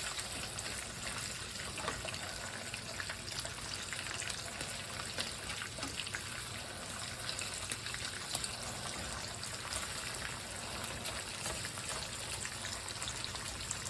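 Bacon sizzling in a frying pan: a steady hiss with many small crackles and pops.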